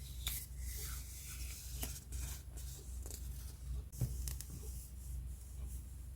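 Paper scrapbooking supplies being handled and shuffled by hand: light rustling and crinkling with soft taps, one tap a little sharper about four seconds in.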